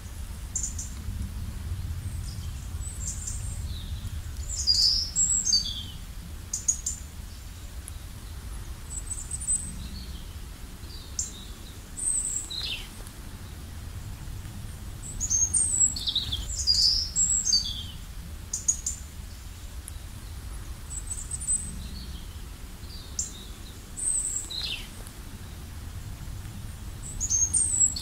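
Songbirds chirping and singing in short high phrases, busiest about five, sixteen and twenty-five seconds in, over a steady low rumble.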